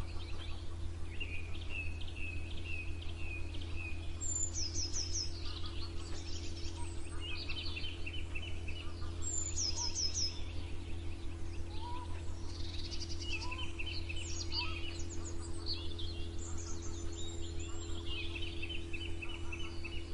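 Several songbirds singing together in a morning chorus: short high chirps and trills, one bird repeating a quick falling phrase every few seconds. A steady low hum runs underneath.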